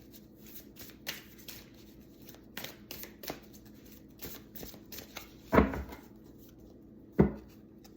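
Tarot cards being shuffled and handled, a string of short papery flicks and slides, with two louder knocks of the deck about five and a half and seven seconds in.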